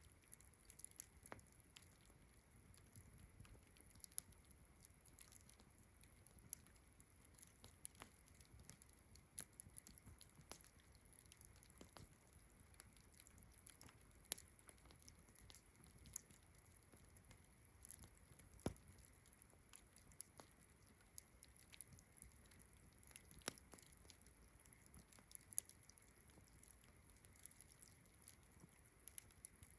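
Campfire crackling: irregular sharp snaps and pops from burning wood, a few louder than the rest, over a faint steady high chirring of crickets.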